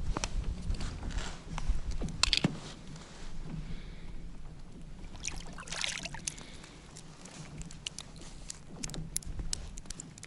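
Irregular crunching and scraping on snowy ice, with a denser cluster of crunches about two seconds in and another near the middle.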